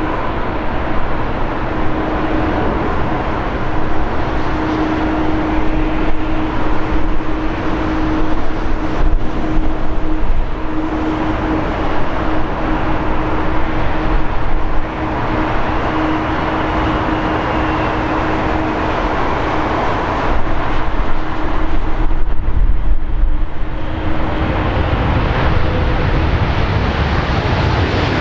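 Airbus A380's four turbofan engines running loud and steady, a deep rumble under a constant droning tone, with a brief dip in level about halfway through.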